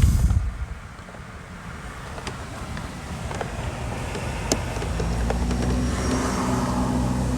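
A motor vehicle's engine rumbling, growing louder over a few seconds, with a few light clicks over it.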